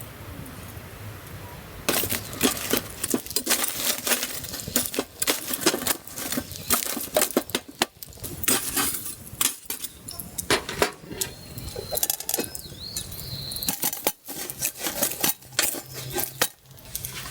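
Small metal items clinking and knocking, like camp cookware and utensils being handled, in a dense run of irregular clicks that starts about two seconds in.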